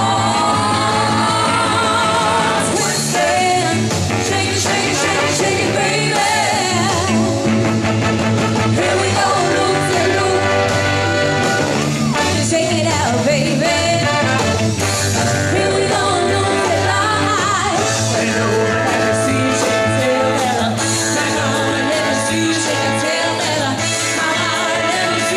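Live singer performing a pop song over a loud backing track with a steady beat.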